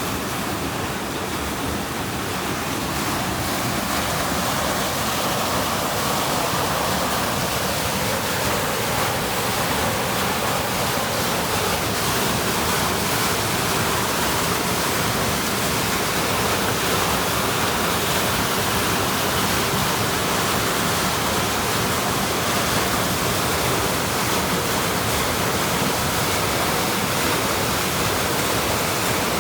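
Water pouring over a small waterfall in a canal: a steady, unbroken rush of falling water.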